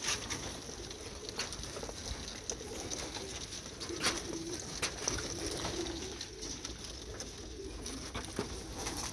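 Racing pigeons cooing, with scattered sharp clicks and taps.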